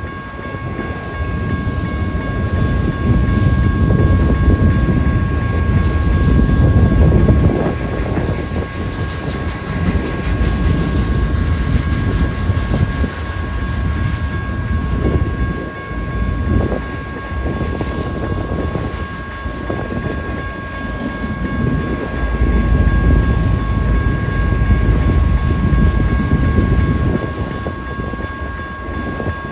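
Freight train rolling past, a heavy rumble of wheels and cars that swells and eases, with a steady high-pitched tone ringing over it.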